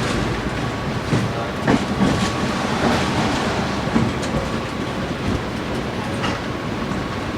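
Tram running along its track: a steady rumble with a few irregular sharp knocks from the wheels over the rails.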